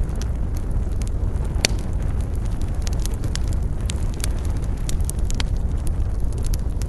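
Wood fire burning in a fireplace: frequent sharp crackles and pops, the loudest about a second and a half in, over a steady low rumble.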